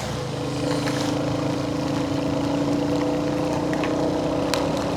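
Royal Enfield Hunter 350's single-cylinder engine pulling under throttle on a climb, getting louder in the first second and then running at a steady note.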